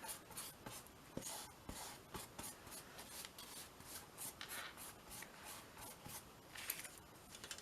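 Brush stroking matte medium over paper scraps on a canvas: a run of quiet, quick scratchy brushing strokes, several a second, with a couple of louder ones near the end.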